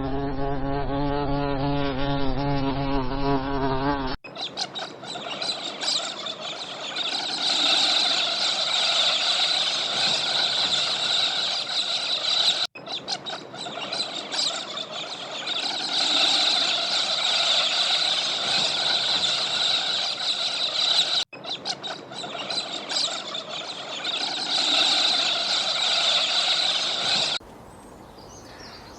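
Insects buzzing: first a fly-like buzz with a wavering pitch for about four seconds, then a dense, steady, high insect drone that cuts off abruptly twice. Near the end it drops to a quieter outdoor background with faint bird chirps.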